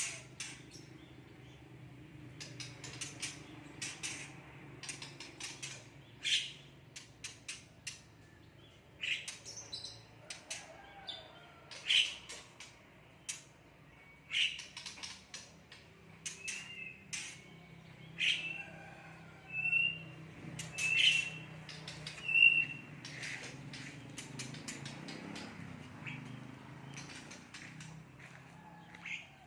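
A songbird calling: sharp chirps at irregular intervals, with a run of short whistled notes in the middle, over a faint low steady hum.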